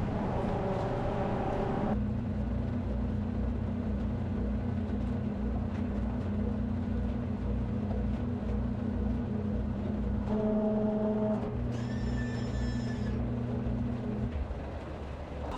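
A machine running with a steady hum and a low pulsing throughout, stopping about a second before the end. Brief pitched tones sound near the start and again about ten seconds in, with a short higher tone just after.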